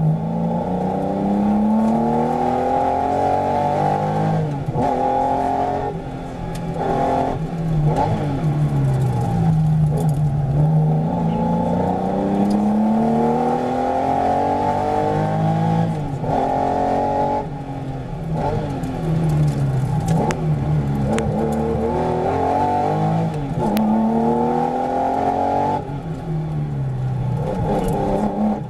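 Porsche 911's flat-six engine heard from inside the cabin, revving up and falling back again and again as the car accelerates out of corners and slows for the next.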